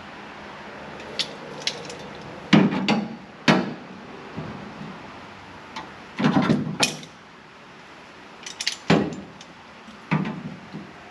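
Irregular metal clanks and knocks, some with a short ringing tail, as tools and parts are handled and set down in a car body. There are about half a dozen loud knocks, with a few lighter ticks early on.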